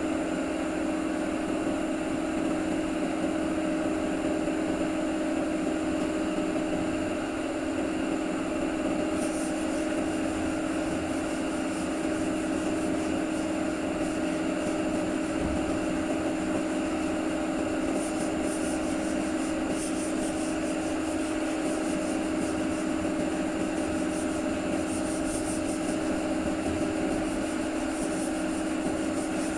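A motor running steadily with a constant hum. From about nine seconds in, a high hiss comes and goes intermittently.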